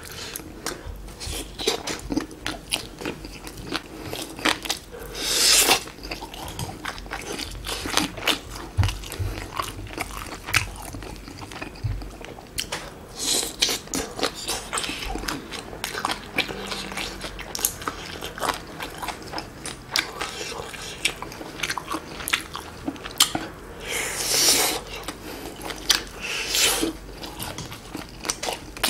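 A person biting and chewing grilled chicken skewers, with many short wet mouth clicks and crunches. There are a few longer, louder bites about five seconds in and again near the end.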